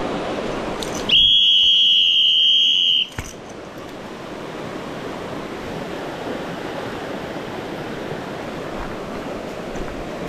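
Steady rushing of a mountain stream, broken about a second in by a loud, high-pitched electronic beep held for about two seconds that cuts off suddenly, the water sound dropping out while it sounds.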